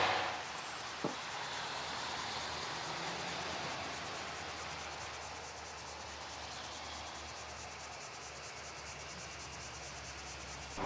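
Faint, steady road noise from a distant vehicle, easing slightly, with a single click about a second in.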